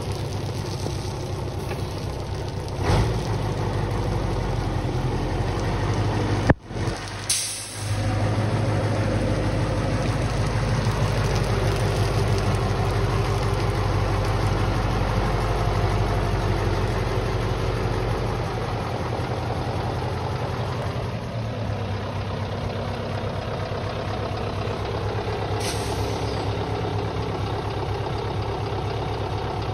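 Scania R142 truck's 14-litre V8 diesel idling steadily. Short air hisses from the air brake system come about seven seconds in and again near the end.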